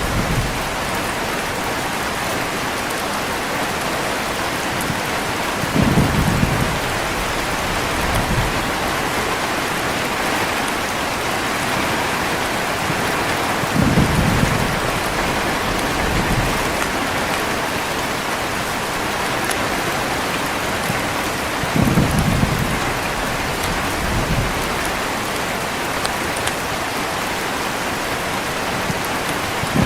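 Heavy rain falling steadily. Short, low rolls of thunder come in pairs about every eight seconds.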